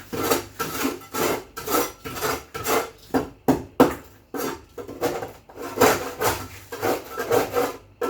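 Rhythmic scrubbing or scraping strokes, about two a second, from hand-cleaning the inside of a refrigerator.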